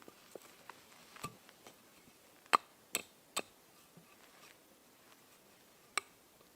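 Scattered faint ticks and light clicks, with a few sharper knocks: the loudest about two and a half seconds in, two more close together about half a second apart soon after, and one near the end.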